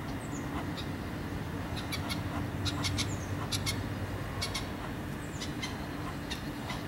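Birds calling: a string of short, sharp high chips and clicks, with a thin descending whistle about every two to three seconds, over a steady low rumble.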